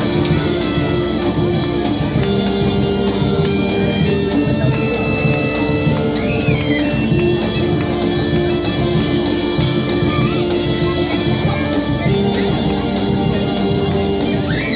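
Live folk music: drums keep a steady beat under held melody notes over a continuous drone.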